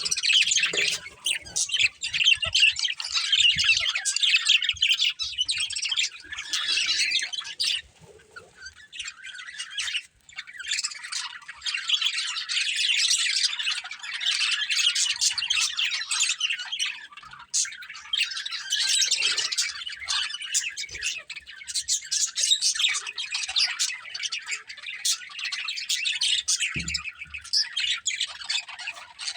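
A pair of budgerigars chirping and squawking in rapid, near-continuous chatter, with a brief lull about a third of the way in.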